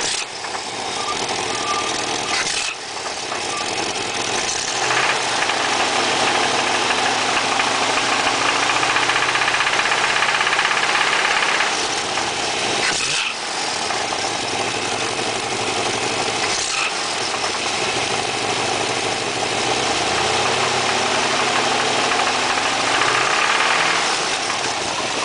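Chevrolet 350 small-block V8 running with a knock, its speed raised and let fall twice. The engine is said to have been driven low on oil, and its owner cannot tell whether the knock is a rod, a main bearing, the camshaft or a piston.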